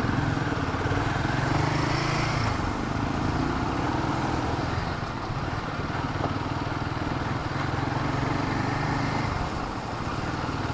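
Royal Enfield Himalayan 450's single-cylinder engine running at low speed in city traffic, with wind and road noise on the microphone. The engine note eases a little about two and a half seconds in.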